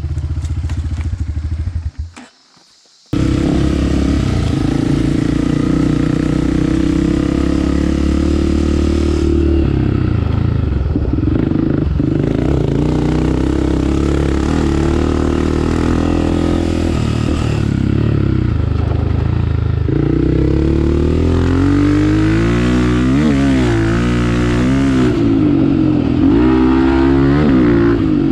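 Honda CRF 250F single-cylinder four-stroke trail bike engine running under way, heard from a helmet-mounted camera, its pitch rising and falling with the throttle, most of all in the second half. The sound drops out for about a second some two seconds in.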